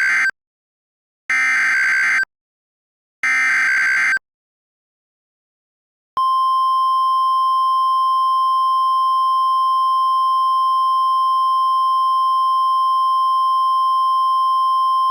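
Weather radio alert: the end of one buzzy digital data burst and two more full bursts of about a second each, the SAME header that codes the warning. After a short pause comes a single steady high warning tone of about 1050 Hz, the NOAA Weather Radio alert tone.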